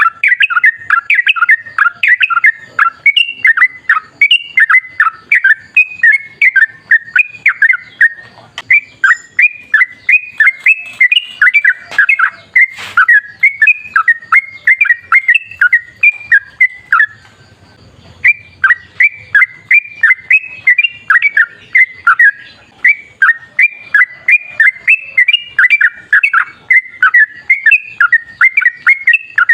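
Yellow-vented bulbul (trucukan) singing a long, rapid run of short, warbling notes, about four a second, broken by a pause of about a second a little past the middle.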